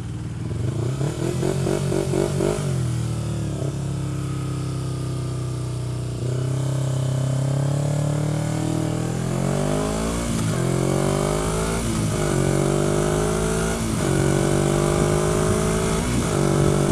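Motorcycle engine accelerating up through the gears. The pitch climbs, then drops sharply at each upshift, four times in the second half. Wind rush runs underneath.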